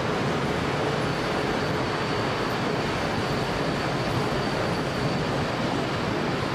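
Flåm Railway train running steadily: the continuous rumble and rolling noise of wheels on rail, with a faint steady high whine from about a second in.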